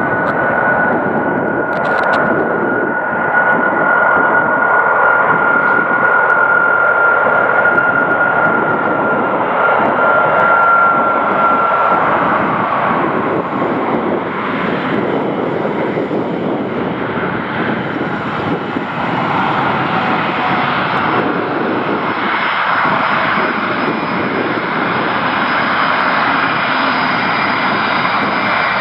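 Four Rolls-Royce RB211 turbofans of a Boeing 747-200 freighter on landing, a loud steady jet rush with a high whine on top. The whine sinks slightly and fades about twelve seconds in, and a higher whine comes in about twenty seconds in.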